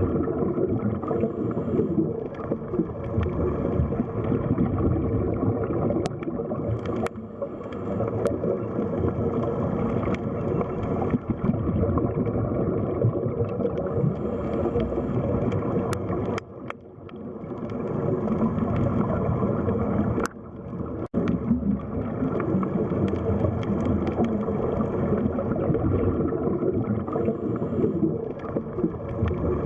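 Underwater sea ambience: a continuous low rumbling, gurgling water noise with a few faint clicks. It dips briefly around 17 seconds and cuts out sharply for a moment about 21 seconds in.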